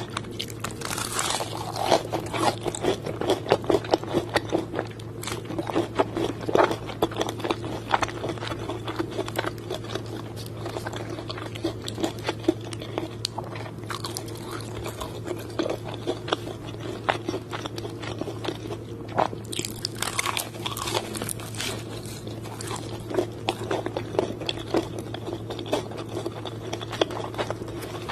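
Close-up crunching, biting and chewing of crispy KFC fried chicken, the breaded coating crackling in dense, irregular bites, over a steady low hum.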